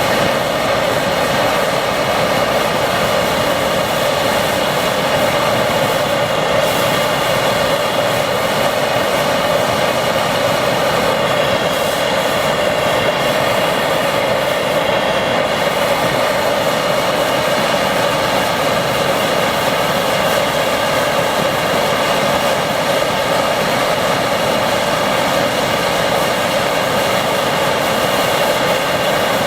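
Hoebus 725 gasoline pressure stove's roarer burner burning steadily with an even rushing roar, the flame running well.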